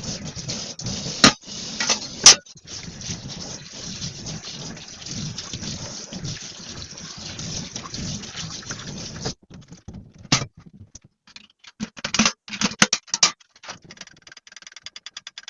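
Tap water running into a kitchen sink while dishes are washed, with a couple of sharp clatters. The water is shut off about nine seconds in, leaving scattered clinks and knocks of dishes being handled and a run of fine rapid ticks near the end.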